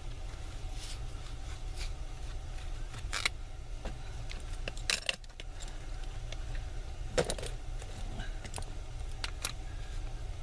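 Light metallic clinks and rattles of small metal objects being handled, about eight scattered a second or so apart, over a steady low hum.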